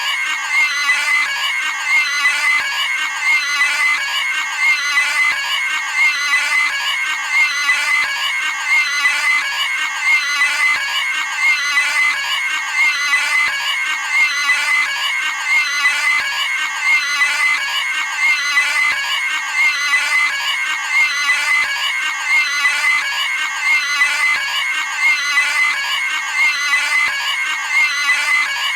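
A cartoon pig's high-pitched screaming squeal sound effect, repeated over and over with a new scream roughly every second and a half.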